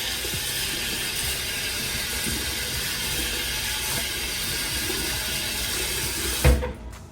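Water running steadily from a bathroom sink tap, stopping abruptly with a knock about six and a half seconds in.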